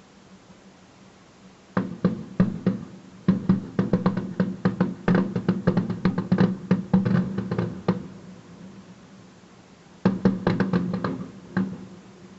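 Fireworks bursting in rapid volleys of sharp bangs, several a second: a long run starting about two seconds in, a pause of about two seconds, then a shorter burst near the end.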